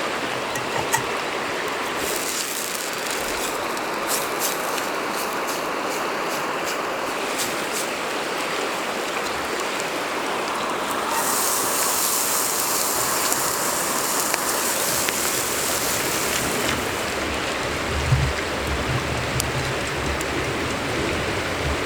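Steady rushing noise like running water, with scattered sharp crackles. A louder high hiss starts suddenly about eleven seconds in and stops about six seconds later, and a few low knocks come near the end.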